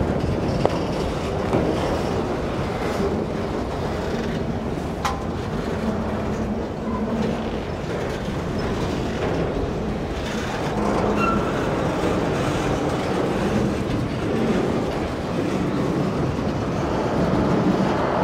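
Freight train of autorack cars rolling past at close range: a steady rumble and rattle of steel wheels on rail, with an occasional sharp click.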